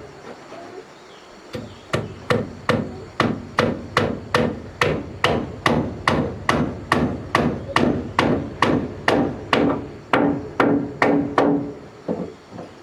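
Steady hammering, about two and a half blows a second after a short pause at the start, some blows ringing.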